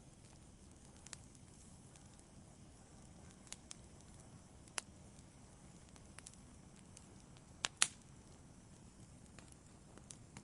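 Fireplace fire crackling: a faint, steady low hiss with scattered sharp pops at irregular intervals, the loudest a pair of pops close together about eight seconds in.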